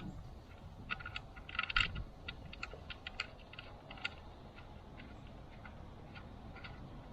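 Irregular light clicks and taps of hand tools working on a motorcycle's oil drain plug, bunched about a second and a half in and thinning out later.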